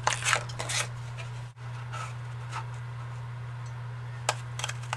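A photo corner punch and paper being handled on a tabletop: light rustling in the first second and a few small sharp clicks near the end, over a steady low hum.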